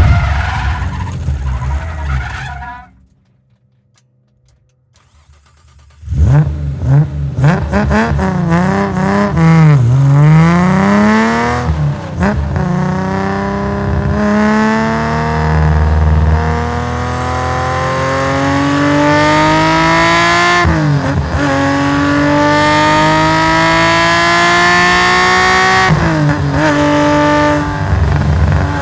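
Tuned Nissan S20 twin-cam straight-six in a Skyline GT-R racing car, heard onboard: the engine sound drops almost to nothing for about three seconds early on, then comes back with quick blips of the throttle and long pulls rising steadily in pitch, cut by two upshifts on the sequential gearbox about two-thirds of the way in and near the end.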